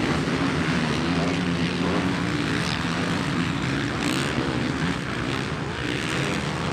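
Motocross bike engines running on the race track in a steady drone, the pitch rising and falling a few times as riders work the throttle.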